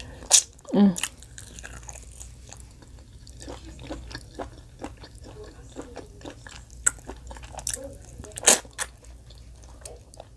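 A person biting and chewing a piece of fried food: loud crunching bites about half a second in and again about 8.5 s in, with many smaller chewing clicks in between.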